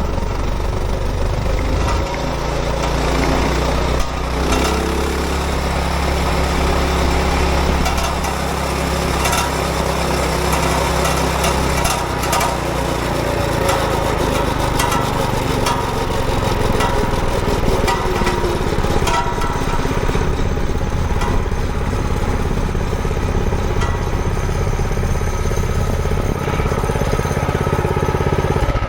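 Manco Thunderbird minibike's small engine running steadily while ridden, with a busy clatter of short rattling clicks throughout. The engine note shifts about two seconds in and again around twelve seconds in.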